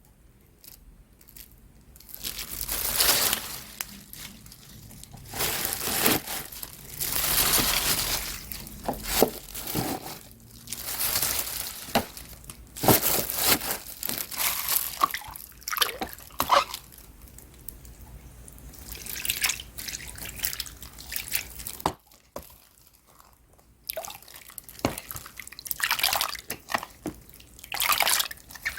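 Water splashing and dripping in a kitchen sink, coming in repeated bouts of a few seconds with short quiet gaps between them.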